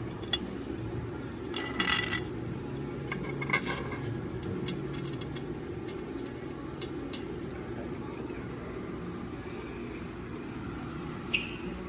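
Hand tools and bolts clinking: scattered short metallic clicks and light scrapes, with a sharper clink near the end, over a steady low background hum.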